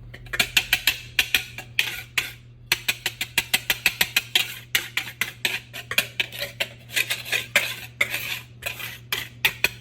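Wire whisk beating dry flour mix in a mixing bowl, striking the bowl's sides in quick, even clicks about six times a second, with a short pause about two and a half seconds in.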